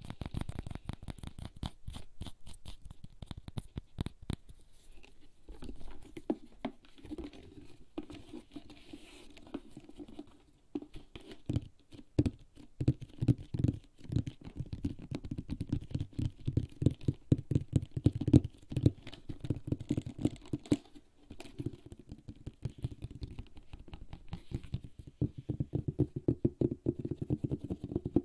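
Fingertips tapping rapidly on a HERZ leather bag: dull taps in fast runs, with a brief pause twice.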